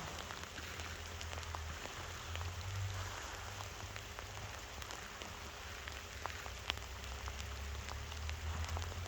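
Small waves lapping and splashing at the water's edge, a steady hiss scattered with small crackling clicks, over a steady low rumble.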